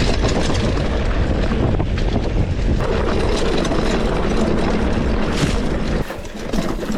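Wind buffeting the microphone over the rumble and rattle of a mountain bike riding over rough off-road ground. The low rumble drops away about six seconds in.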